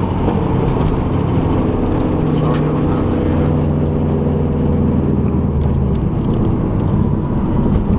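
Car engine and road noise heard from inside the cabin while cruising at steady speed, a continuous low hum whose engine note eases off about six seconds in.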